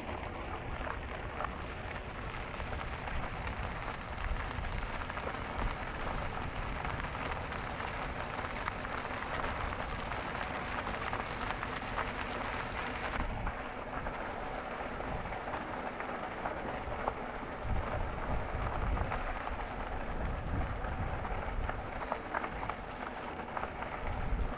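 Wind rushing over the microphone of a camera on a moving e-bike rolling downhill: a steady rough rush with irregular low buffeting gusts.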